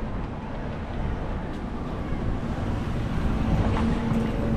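Wind buffeting the microphone over steady outdoor noise, with a faint hum near the end.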